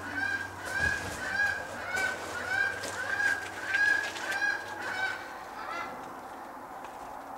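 A bird calling over and over in short honking notes, about two a second, that stop about six seconds in.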